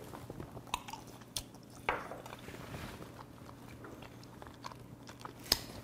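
Close-miked chewing of a mouthful of raw filefish liver: soft, wet mouth clicks and smacks, with a sharper click about five and a half seconds in.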